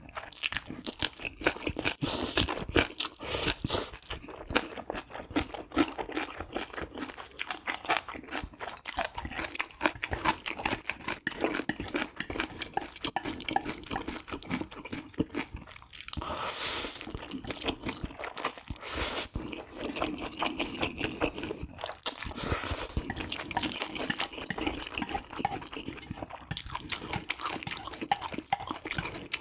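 Close-miked eating of crunchy food: steady crunching and chewing, with a few short, louder noisy bursts near the middle.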